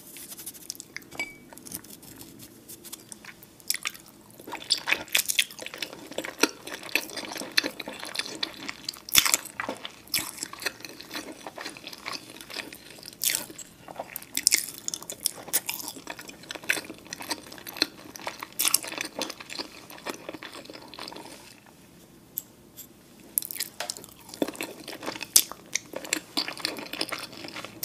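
Close-miked ASMR eating sounds of a peeled boiled egg: bites and chewing, with many irregular wet mouth clicks and smacks, and a short quieter pause a little after the middle.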